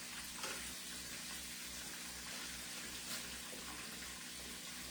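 Chicken pieces frying in hot oil, a steady sizzling hiss, with a small knock about half a second in.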